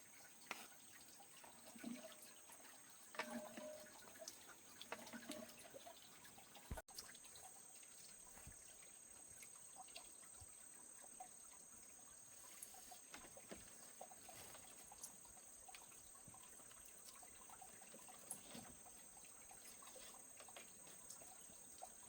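Near silence: faint water trickling and dripping with scattered small clicks, over a steady faint high-pitched whine.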